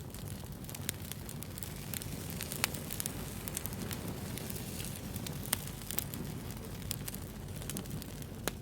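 Wood bonfire burning with a steady low rush and irregular crackles and pops, the sharpest about two and a half and five and a half seconds in.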